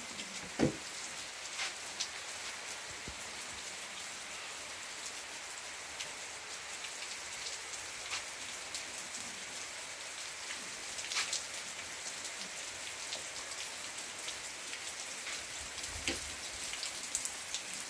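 Steady rain falling, with scattered drops and drips ticking close by.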